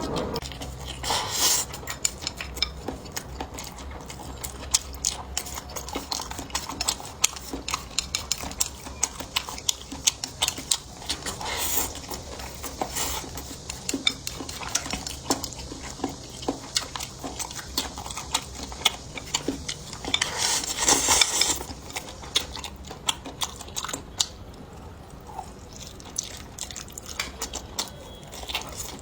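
Eating utensils clicking and scraping against bowls and plates at an irregular pace, with a few short noisy bursts, the longest about twenty seconds in.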